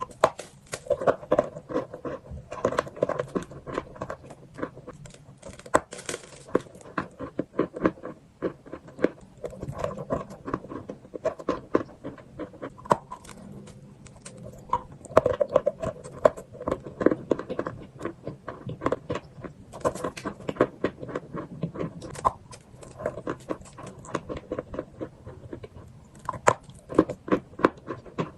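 Chalk with chalk paste being crunched: a dense, irregular run of sharp crackles and crumbling cracks, with a few brief lulls.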